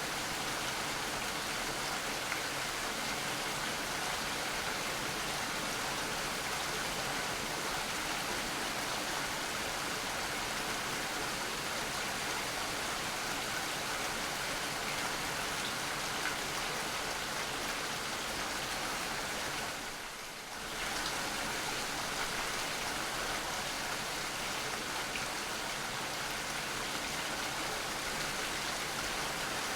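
Steady rain falling, an even hiss of many drops that dips briefly a little over two-thirds of the way through.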